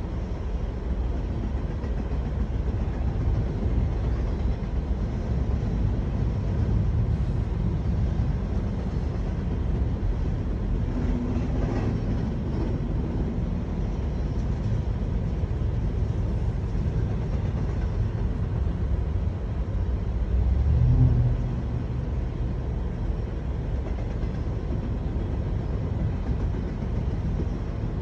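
Freight train rolling past with a steady low rumble, swelling briefly louder about three quarters of the way through.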